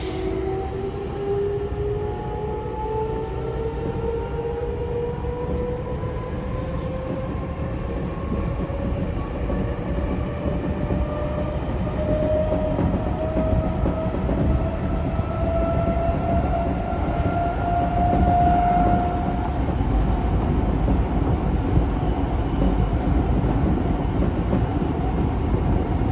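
Mitsubishi IGBT-VVVF inverter and traction motors of a Tokyo Metro 05 series electric train whining, the pitch climbing steadily as the train accelerates. About twenty seconds in the whine fades out as power is shut off, leaving the steady rumble of the wheels on the rails.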